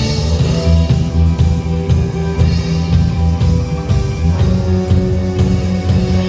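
Rock music with guitar, bass and drums playing steadily, the bass notes strongest.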